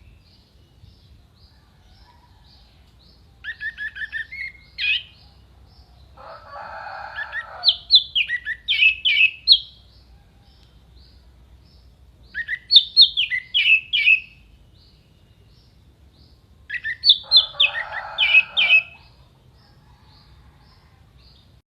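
Orange-headed thrush (anis merah) singing: four loud phrases of quick, sharply falling whistled notes a few seconds apart, with a rough, hissing sound under the second and fourth phrases. A faint, regular high chip, about two a second, runs underneath.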